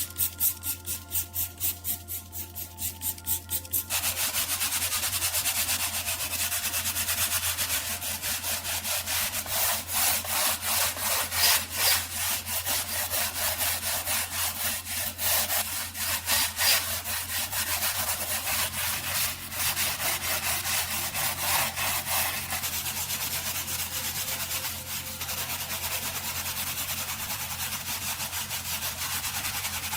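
Abrasive back-and-forth rubbing strokes on a hard surface, about three or four a second at first, then faster and more continuous from about four seconds in, over a steady low hum.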